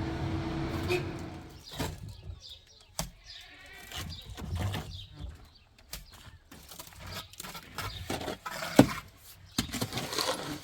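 A steady mechanical hum stops about a second and a half in. A farm animal then bleats once, among scattered clicks and knocks, with one sharp knock near the end standing out as the loudest.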